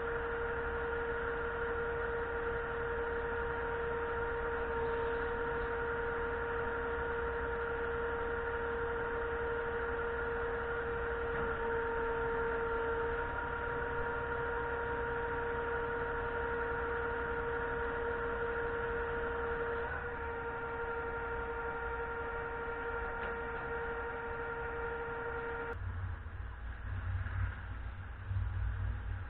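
Steady high whine from a concrete pump truck's hydraulic system over a low engine rumble. Near the end the whine cuts off suddenly, leaving an uneven low rumble.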